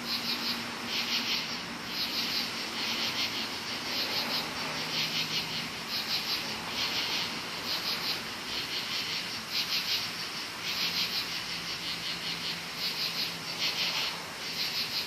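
Many crickets chirping together in a chorus, high-pitched trills coming in rhythmic pulses about one to two times a second.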